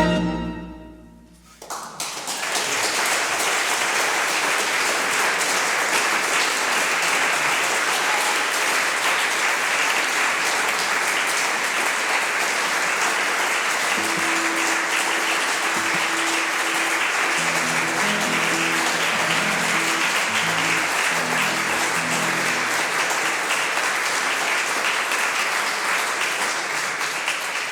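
The last chord of a guitar and string ensemble (two violins, viola, double bass) dies away. About two seconds in, steady audience applause begins.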